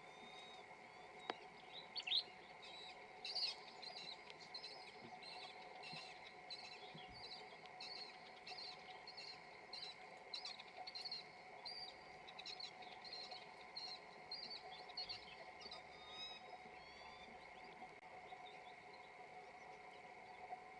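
Peregrine falcon calling in a long series of short, high calls, about two a second, loudest a few seconds in and fading out near the end: the courtship calling of the female to her mate. A steady high-pitched hum runs underneath.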